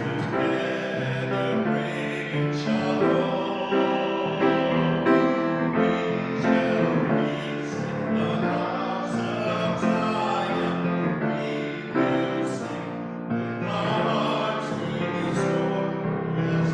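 A group of voices singing a hymn with piano accompaniment, in slow sustained notes.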